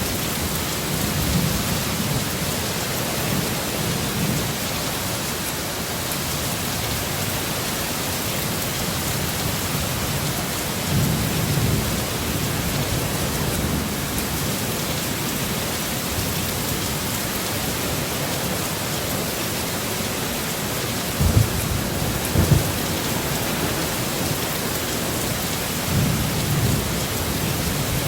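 Steady heavy rain with low rumbles of thunder that swell and fade several times, two of them sharper and louder about three-quarters of the way through.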